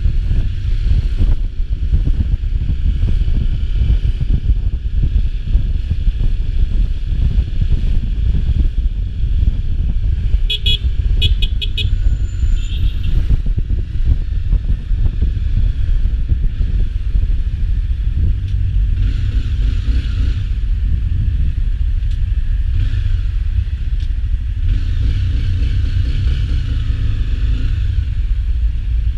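Traffic noise while riding: a steady low rumble of engine and wind, with other vehicles passing. A quick run of short high beeps, like a horn tooting, comes about ten seconds in.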